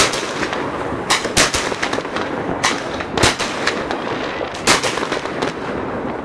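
Fireworks going off: a continuous dense crackle and rumble with sharp, loud bangs at irregular intervals, about one every second or so.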